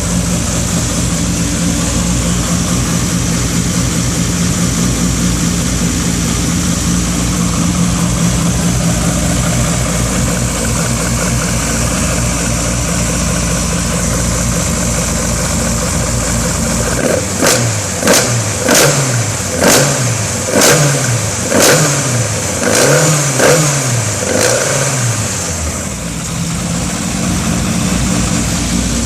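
Hasselgren-built 1600cc Atlantic racing engine in a Toyota AE86 running on its first start, idling steadily at first. Past the middle it is blipped hard about eight times, the revs rising and falling roughly once a second, then it drops back to idle.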